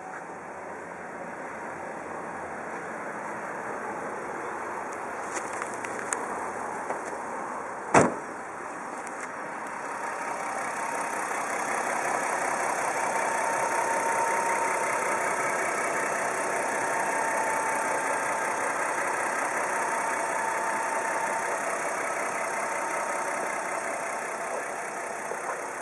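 Nissan Gloria's VQ25DD 2.5-litre V6 idling steadily, which the seller calls in good running condition, louder from about ten seconds in with the hood open. A single sharp thump about eight seconds in, with a few small clicks just before it.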